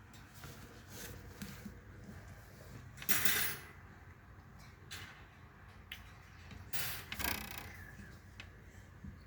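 Two short, harsh cockatiel squawks, about four seconds apart, over faint scattered clicks.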